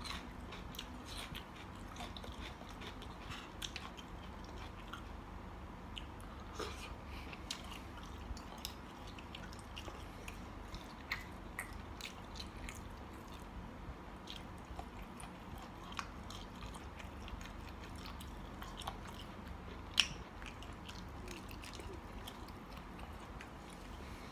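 A person eating spicy mixed seafood salad with squid and shrimp by hand: steady chewing with many small mouth clicks and smacks, and one sharper click about twenty seconds in.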